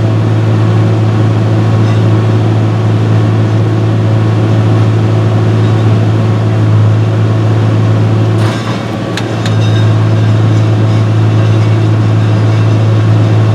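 Non-turbo John Deere 6068 six-cylinder diesel running at a steady speed with a constant low hum; about eight and a half seconds in it briefly dips, with a few sharp clicks.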